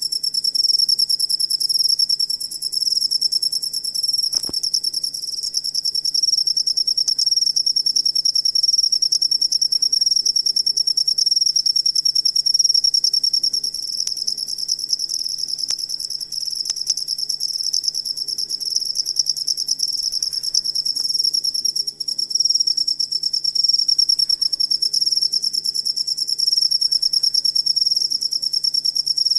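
Cricket chirping in an unbroken, fast trill: one high steady note made of rapid pulses.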